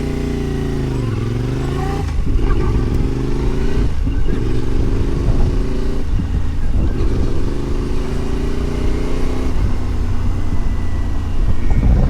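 Adventure motorcycle engine heard from on the bike. The revs drop about a second in, then the bike pulls away, louder from about two seconds in. The pitch rises in several climbs, with short drops between them as it shifts up through the gears.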